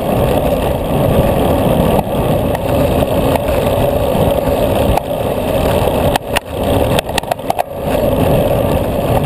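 Wind rushing over the microphone of a camera on a road bicycle ridden at racing speed, a steady rushing noise. It eases briefly about six seconds in, with a few sharp clicks, then returns.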